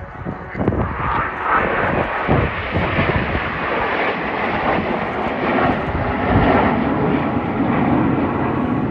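Jet engine noise from Frecce Tricolori Aermacchi MB-339 jets flying a display pass, rising about a second in and then holding steady and loud.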